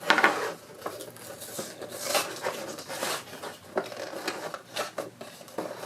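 Toy packaging being handled and pulled at: irregular rustling with scattered sharp clicks and taps.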